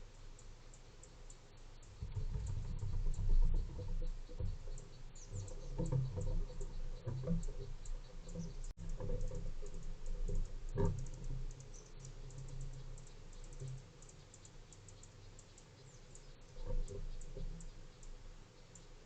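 Irregular light tapping and clicking with dull low knocks, from animals pecking and moving about at a feeding spot. The knocks come thickest in the first half and again briefly near the end.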